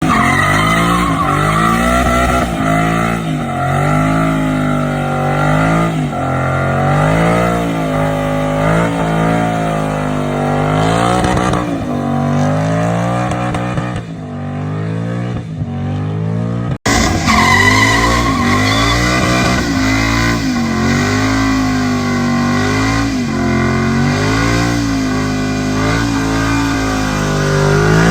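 Ford Mustang Boss 302's 5.0-litre V8 revving hard through burnouts, the revs swinging up and down while the rear tyres spin and squeal. The sound cuts out abruptly about seventeen seconds in, and a second burnout follows with the same revving and tyre squeal.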